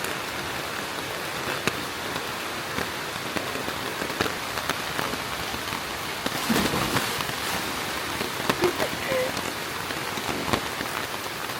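Heavy rain falling steadily: a dense hiss with many separate drop impacts.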